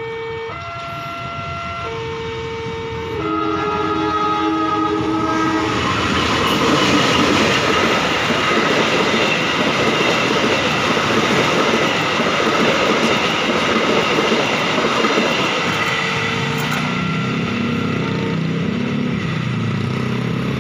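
CC 201 diesel-electric locomotive sounding its horn in several blasts as it approaches, then the passenger train passing close by with a loud steady rush and wheel clatter on the rails. Near the end the train noise dies down and motorcycle engines take over.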